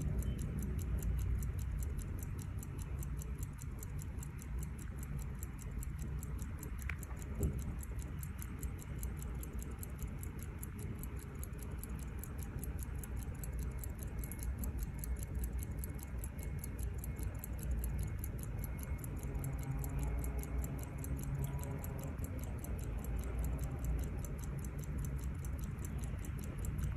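Mechanical wristwatch movement ticking close up: its escapement gives a fast, even run of light ticks over a low steady hum.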